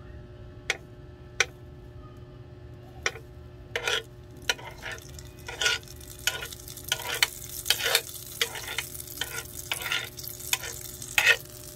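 Eggplant in beaten egg frying in oil in an electric mini hot pot cooker: a few sharp pops at first, then a steady sizzle with frequent spitting pops from about four seconds in.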